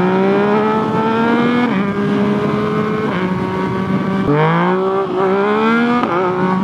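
Yamaha FZ-09's inline three-cylinder engine, breathing through a full aftermarket exhaust, pulling hard under acceleration. Its pitch climbs and drops back at each of several quick upshifts.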